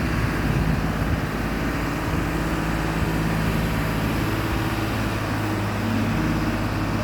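Street noise with a steady low engine hum, as of traffic or an idling vehicle nearby.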